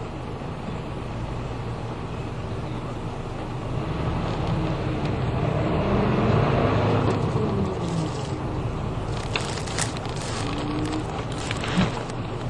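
Route bus heard from inside the passenger cabin while driving, engine and road noise steady. About four seconds in, the engine note rises as the bus accelerates, then falls away a few seconds later. Light rattles and clicks come near the end.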